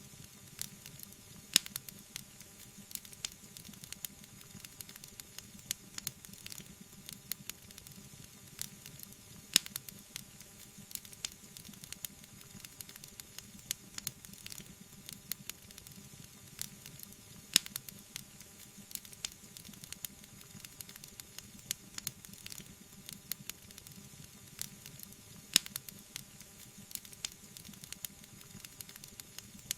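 Wood fire crackling, a dense run of small ticks and snaps over a soft hiss. A few much louder sharp pops stand out, about every eight seconds.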